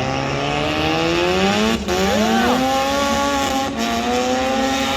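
Car engine revving hard in a burnout: its pitch climbs over the first two seconds, dips briefly, then is held at high revs.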